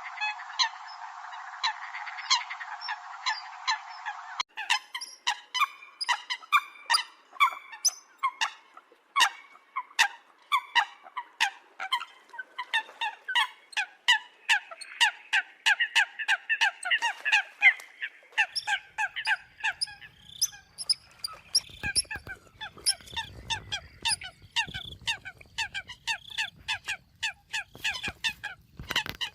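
Eurasian coots calling: a dense, continuous run of short, sharp honking notes from several birds, overlapping. The first few seconds sound thinner and filtered before the calls open out.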